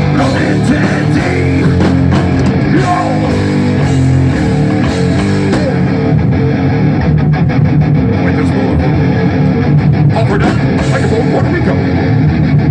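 Live rock band playing an instrumental passage: loud distorted electric guitars over bass and a drum kit.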